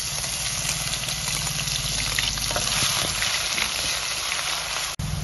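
Chopped aromatics and green chili dropped into hot oil in a wok, sizzling hard and steadily as a metal ladle stirs them. The sizzle breaks off for an instant near the end.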